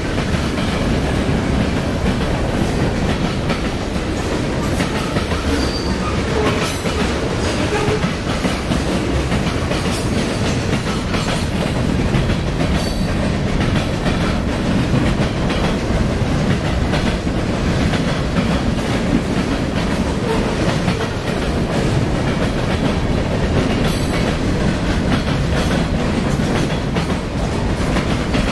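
Freight train cars (boxcars, tank cars and hoppers) rolling past close by at steady speed, a continuous rumble with the wheels clicking over the rail joints.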